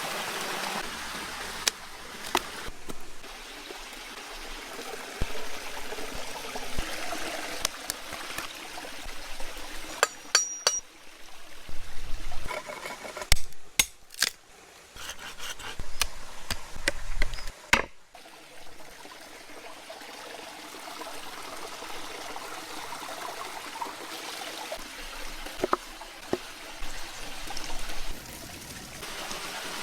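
Running, trickling water with scattered sharp knocks and clicks, the sound changing abruptly several times midway.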